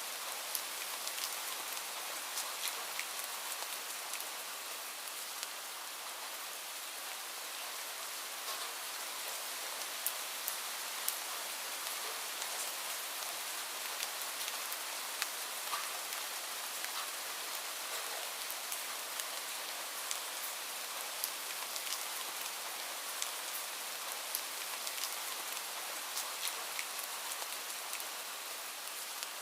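Steady rainfall, an even hiss with many close, sharp drop taps scattered through it.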